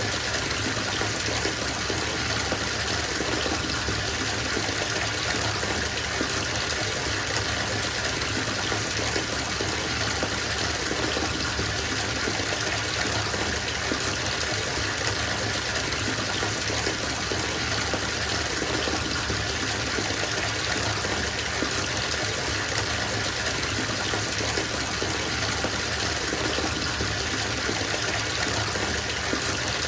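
Bathtub filling: water pouring steadily from the tap into the tub.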